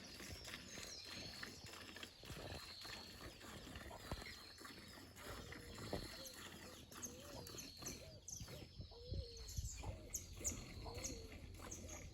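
Farm animals calling: short repeated calls, about one or two a second in the second half, with quick high bird chirps over a steady background hiss.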